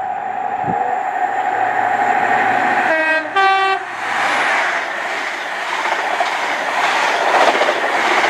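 InterCity 125 (HST) led by a Class 43 power car passing through at speed. A steady whine on its approach, then the two-tone horn sounded about three seconds in as two short notes, then the loud rush and rumble of the coaches going by.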